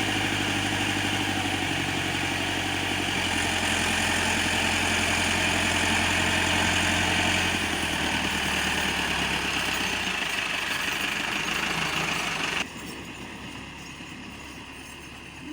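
Tractor engine running steadily, its pitch shifting slightly partway through; about 13 seconds in the sound drops abruptly to a much quieter engine hum.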